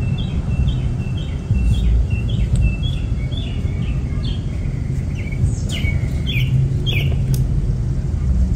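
A songbird singing a run of short, high chirps about two a second, with a few louder sweeping notes around the middle, over a steady low rumble. A few sharp clicks come near the end.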